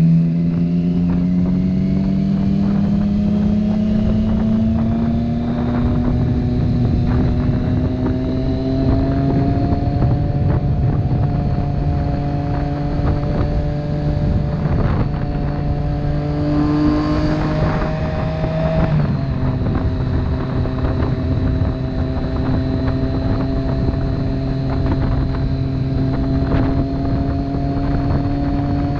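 Motorcycle engine under way, its note climbing steadily as it accelerates over the first several seconds, then holding a steady cruise with a slight drop in pitch about 19 seconds in. A steady rush of wind noise runs under the engine.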